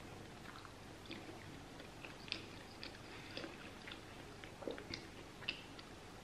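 A person chewing a pulled pork sandwich with the mouth closed: faint chewing with small, scattered wet mouth clicks.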